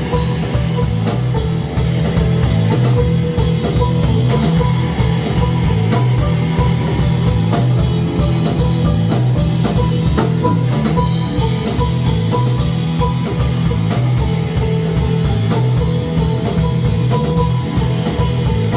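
Live rock band playing an instrumental intro, with electric guitar, bass and a drum kit keeping a steady beat.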